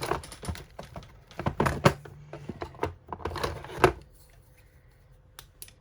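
Costume jewellery and beads being handled, giving a quick run of clicks and rustling for about four seconds, then two light clicks near the end.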